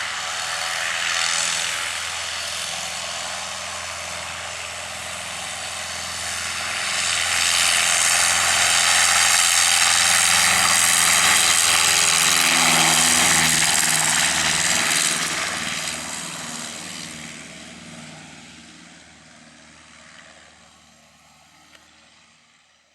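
Cessna 150L's four-cylinder Continental O-200 engine and propeller at full takeoff power, growing louder for a few seconds, loudest mid-way through, then fading steadily away to near silence as the airplane climbs out.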